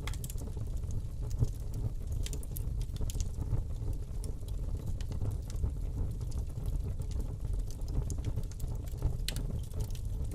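Fire burning in a fireplace: irregular crackles and sharp pops over a steady low rumble of the flames.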